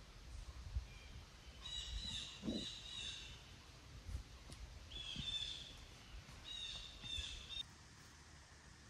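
A bird calling: three bouts of short, high notes in quick succession, with faint low thumps of handling beneath.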